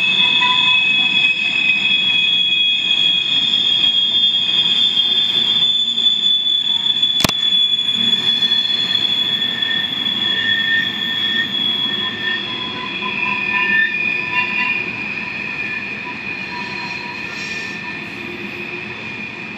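Loaded covered hopper grain cars rolling past with steady, high-pitched wheel squeal, several tones held at once over the rumble of the wheels. One sharp click comes about seven seconds in, and the sound fades over the last few seconds.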